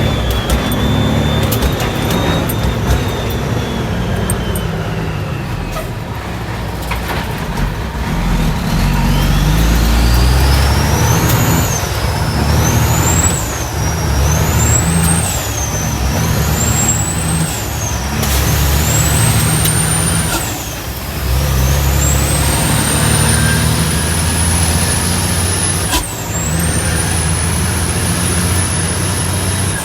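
Heavy dump truck's diesel engine pulling under load, with a high whine that climbs and drops back again and again as it goes up through the gears, then rises and holds steady.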